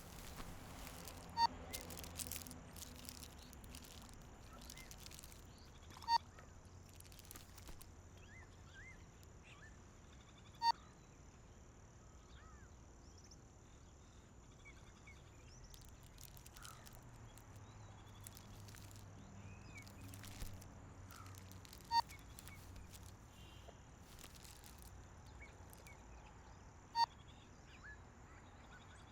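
Quiet outdoor nature ambience with faint scattered bird chirps over a low hum, broken by a short, sharp, high note that comes five times, several seconds apart.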